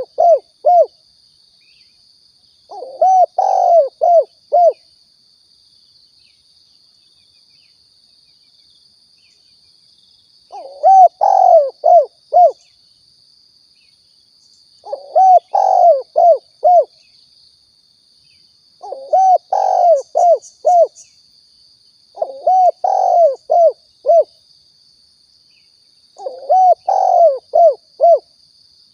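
Spotted dove (tekukur/balam) cooing: about six separate phrases of several low notes each, repeated every few seconds with a longer pause about a quarter of the way in. A faint steady high tone runs underneath throughout.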